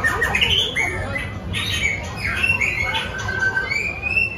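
Birds calling: many short, high calls that slide up and down in pitch and overlap one another.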